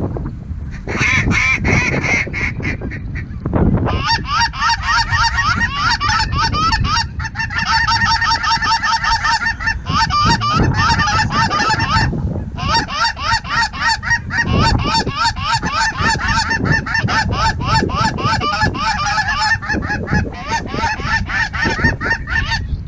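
A large flock of small geese calling, a dense chorus of rapid, high-pitched honks that hardly lets up, with a brief lull about 12 seconds in. Wind rumbles on the microphone underneath.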